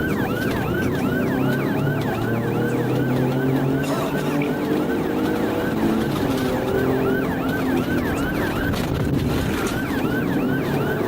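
Police car siren in fast yelp mode, sweeping up and down about three times a second, with a vehicle engine running hard underneath.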